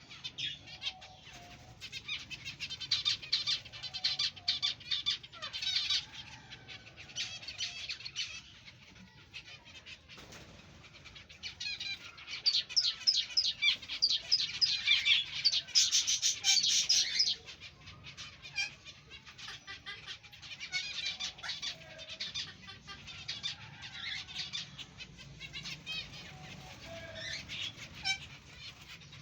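A colony of aviary finches chirping nonstop, many short high calls overlapping, loudest for a few seconds around the middle.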